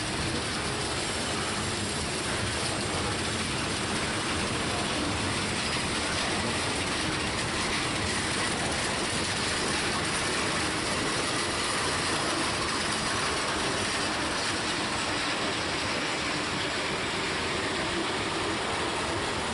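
Loaded coal cars of a freight train rolling past, a steady, unbroken noise of steel wheels running on the rails.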